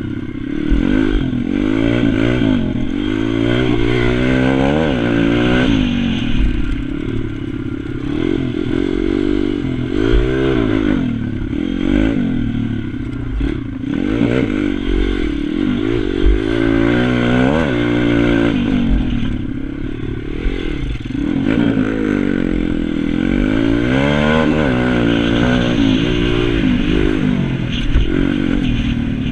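Pit bike engine revving up and down over and over, its pitch climbing and dropping every second or two with the throttle as the bike accelerates and slows through the corners.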